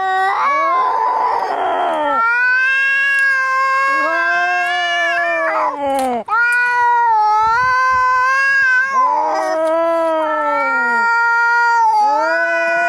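Cats yowling and caterwauling in a fight: long drawn-out wails that rise and fall, two voices overlapping at times, with a short hiss about a second in and another around nine seconds.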